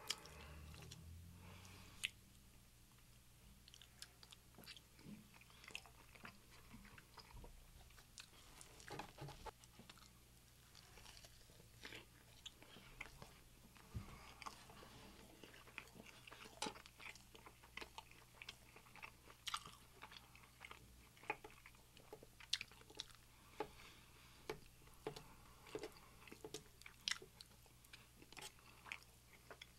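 Faint, close-miked chewing and biting of a man eating breakfast food, with soft crunches and scattered sharp mouth clicks at irregular intervals, over a faint steady low hum.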